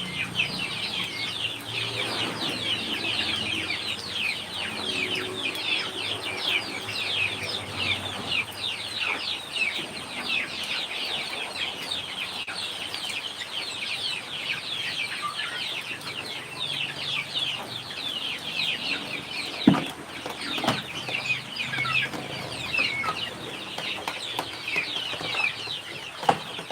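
A brood of chicks peeping continuously, a dense chorus of many short, falling, high-pitched peeps, with a sharp knock about two-thirds of the way through.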